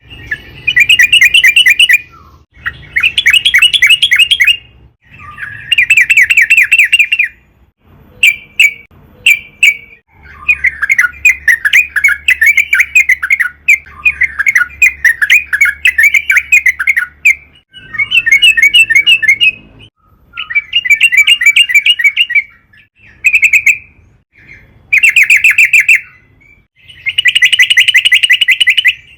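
Yellow-vented bulbul (trucukan) singing loud, rapid chattering phrases over and over, most lasting a second or two with short pauses between, and one long unbroken bout in the middle.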